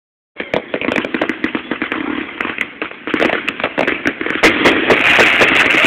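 Fireworks crackling: a dense run of rapid sharp pops and crackles, growing louder about three seconds in and again near the end.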